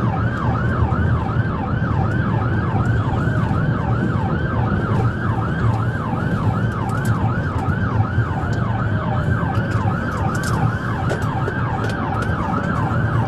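Police car siren in fast yelp mode, wailing up and down about three times a second, over the steady low rumble of the moving vehicle's engine and road noise.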